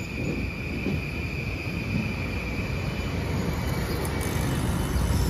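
Kawasaki M8 electric multiple unit rolling past along the platform, with a low rumble of wheels on rail. A steady high whine fades out about halfway through.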